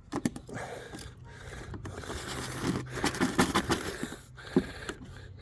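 Irregular scraping, scratching and small knocks as caked grass clippings are scraped off a lawnmower, busiest about three to four seconds in.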